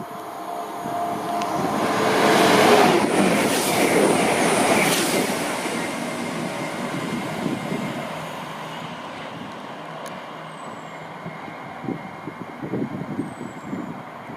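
Train passing: the rush of the train builds to a peak about three seconds in and then fades away over several seconds, leaving a low rumble.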